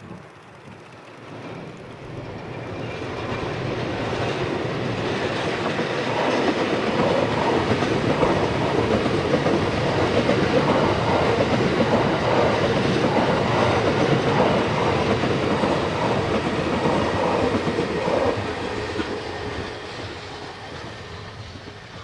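E001 Train Suite Shiki-shima cruise train passing: its running noise swells as it approaches, the wheels clatter in a steady rhythm as the cars go by, and the sound fades away as it recedes.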